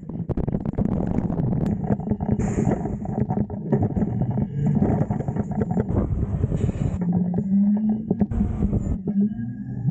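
Autocar garbage truck with a Heil Half/Pack front-loader body running, with repeated metal clanks and bangs from dumpster handling. The engine rises in pitch about three-quarters of the way through.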